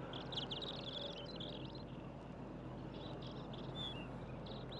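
Small birds chirping: a quick run of short, high chirps in the first second and a half, then a few scattered chirps, over a faint steady low hum.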